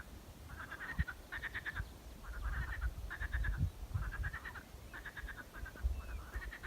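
Animal calls repeating about once a second, each a short rasping rattle of quick pulses, with a few dull low thumps between them.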